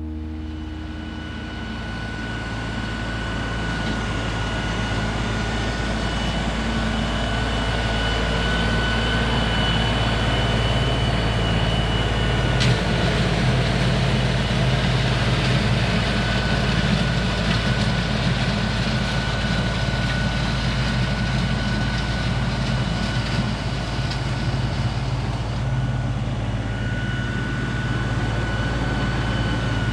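Compact diesel tractor engine running steadily under work, with a steady high whine over it. There is one sharp click about midway.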